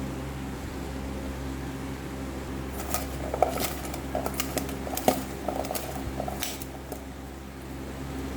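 Utensil clinking and scraping against a bowl, a run of light clicks from about three seconds in until about six and a half seconds, while potato strips are tossed with spices and cornflour. A steady low hum runs underneath.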